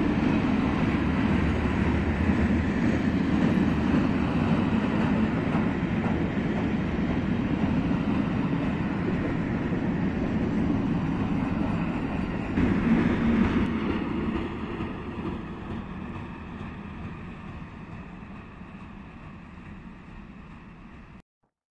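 Container flat wagons of a freight train rolling past close by: a steady rumble of wheels on rail, briefly louder about 13 seconds in, then fading as the train draws away, until the sound cuts off suddenly near the end.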